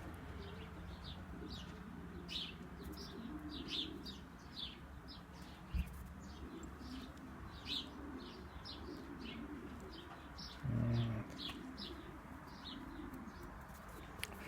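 Pigeons cooing, with many short high chirps from small birds repeating two or three times a second. A brief louder low sound about eleven seconds in.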